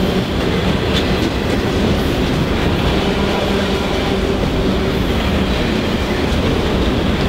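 Autorack freight cars rolling past: a loud, steady rumble of steel wheels on the rails with faint clicking.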